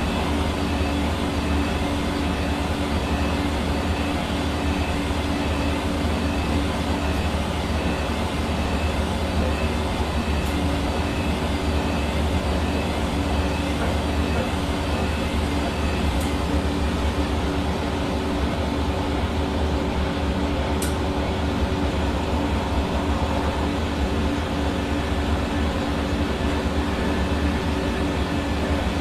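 Hair dryer running steadily: an even rush of blown air over the hum of its motor, without change.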